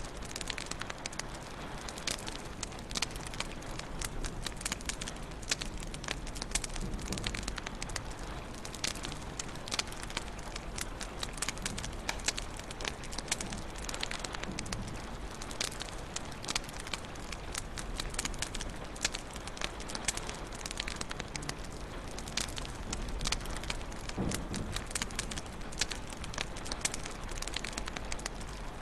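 Wood fire burning in a fireplace, crackling and popping irregularly over a steady low hiss, with many small snaps close together.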